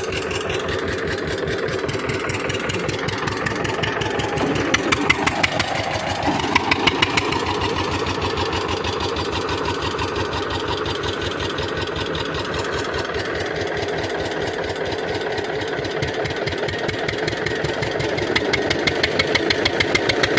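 Diesel tractor engine running with steady, even pulses. About four to seven seconds in it gets louder and its pitch dips and then recovers, as under load, and the pulses grow stronger again near the end.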